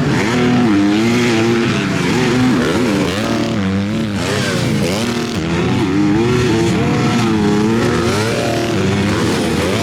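Several MX2 motocross bikes racing, their engines revving up and falling back again and again as the riders work the throttle and shift, the pitches overlapping.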